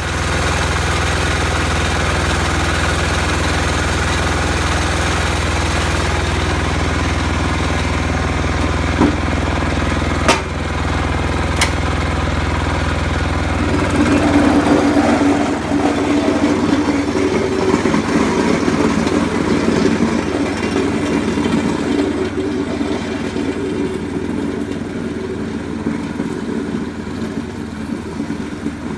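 Diesel engine of a Sears 8XL garden tractor running with a steady low drone, with a few sharp clicks around ten seconds in. About fourteen seconds in the low drone gives way to a higher, rougher, more uneven running sound.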